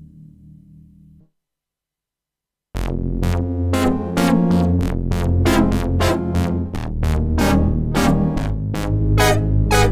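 Sequential Prophet Rev2 analog polysynth: a low sustained patch fades out, about a second and a half of silence, then a new patch starts, short plucked notes in a quick rhythm, about three a second, over a heavy bass line.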